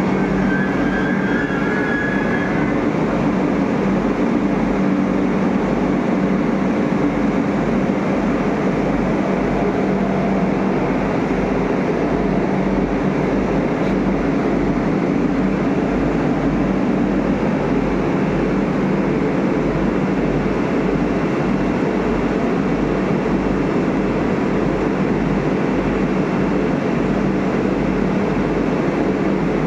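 Vande Bharat electric train set heard at close range beside the coaches: a steady mechanical hum and rumble with a low, even pulsing underneath. A brief high squeal sounds in the first two seconds, then the hum runs on unchanged.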